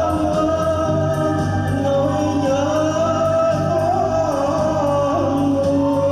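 Music: a singer holding long notes with a slight waver, over instrumental accompaniment.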